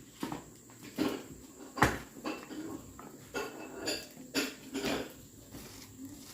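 Dishes and cooking utensils clinking and knocking, about a dozen irregular knocks with the loudest about two seconds in.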